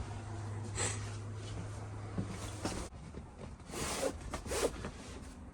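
A low steady hum that cuts off about three seconds in, with light rustling and scraping handling noises scattered through it.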